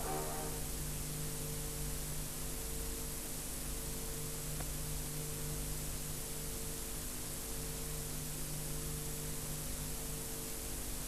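Steady hiss with a low electrical hum throughout: the recording's background noise, with no speech.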